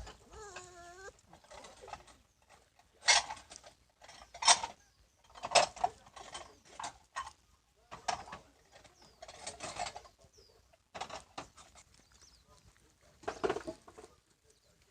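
A series of short, sharp animal calls at irregular intervals, after a brief wavering whine about half a second in.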